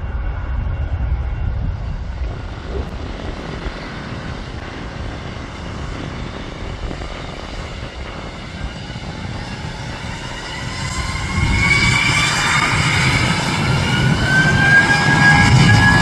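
Jet airliner's engines: a low rumble at first, then from about two-thirds in a whine that rises in pitch and grows louder as the aircraft powers up or approaches.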